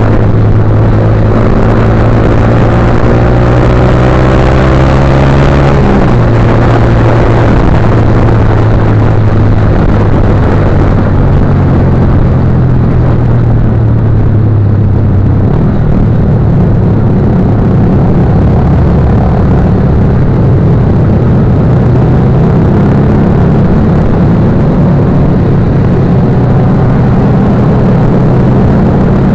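Motorcycle engine running hard, its pitch climbing for several seconds and then dropping at a gear change about six seconds in; it shifts again later and then runs fairly steady, under a heavy rush of noise.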